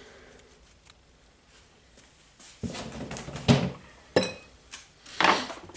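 Small metal parts from a rotary hammer's gearbox knocking, clinking and scraping as they are handled, one clink ringing briefly. Quiet at first, the handling noises begin about halfway in.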